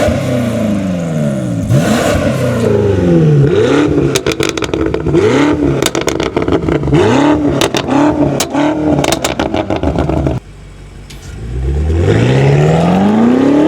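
BMW F90 M5's twin-turbo V8 through a Yonristic catback exhaust, revved in a string of quick blips, each rising and falling in pitch, with sharp cracks from the exhaust as the throttle closes. About ten seconds in it drops off sharply, then rises again in one long climbing rev near the end.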